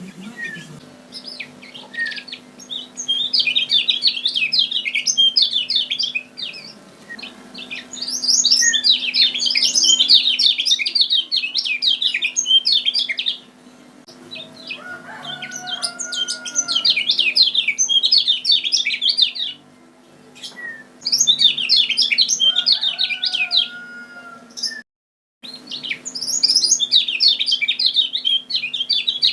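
Kecial kuning (yellow white-eye) singing a fast, high twittering song in five phrases of several seconds each, separated by short pauses, over a steady low hum. It is a lure song played to call in birds of the same kind.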